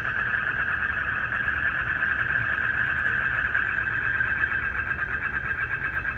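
Dense night chorus of calling frogs and insects, a steady pulsing trill that never breaks, over a low rumble.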